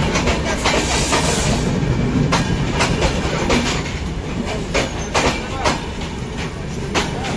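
Bangladesh Railway passenger coaches running past on the next track: a continuous rumble of wheels on rail with repeated sharp clicks as the wheels cross rail joints, heard from the open doorway of a train.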